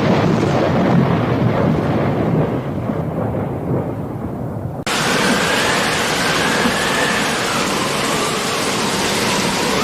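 Thunder rumbling low over falling rain. Almost five seconds in, the sound switches abruptly to a steady hiss of heavy rain.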